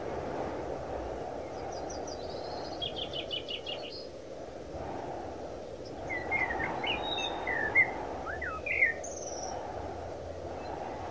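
Songbirds calling: a rapid trill of repeated high notes about two seconds in, then a run of short, varied chirps and whistles from about six to nine seconds in, over a steady low rushing background.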